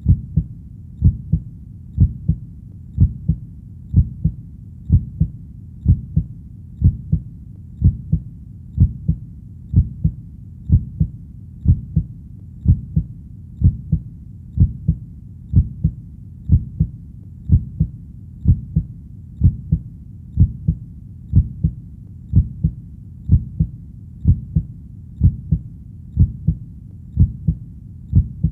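Heartbeat: a steady low double thump, lub-dub, repeating about once a second.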